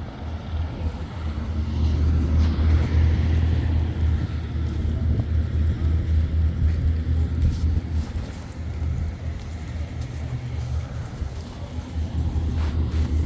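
A truck engine running, heard as a low, uneven rumble.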